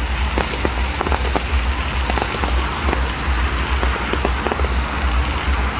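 Fireworks crackling and popping: many scattered sharp cracks at an irregular pace. A steady low rumble runs underneath.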